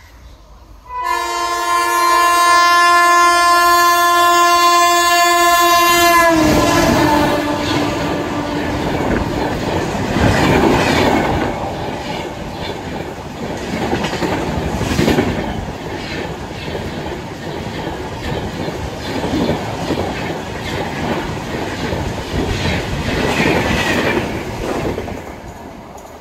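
A locomotive horn sounds a long multi-note chord for about five seconds, dropping slightly in pitch as the locomotive passes. An express train then rushes past, its wheels clattering rhythmically over the rail joints before fading near the end.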